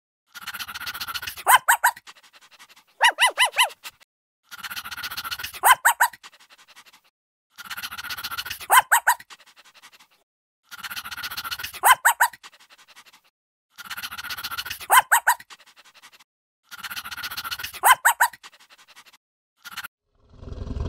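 An animal calling over and over: a breathy rush of noise followed by three or four short, sharp, high-pitched yelps, the same pattern repeating about every three seconds.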